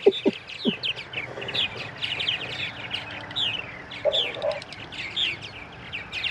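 Small birds chirping busily: a rapid, continuous stream of short, high, downward-sliding chirps, with a brief low sound about four seconds in.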